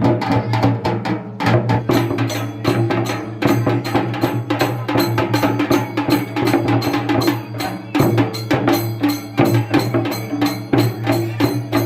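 Traditional festival percussion music: fast, even drum and wood-like strikes, several a second, over a steady low droning tone.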